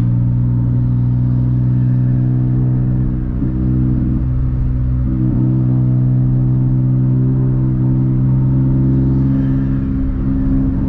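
Engine of a Stage 3 tuned VW Up! TSI, a 1.0 turbocharged three-cylinder, heard from inside the cabin, running loud and steady at highway speed. Its note holds one pitch except for two brief wavers, about three and five seconds in.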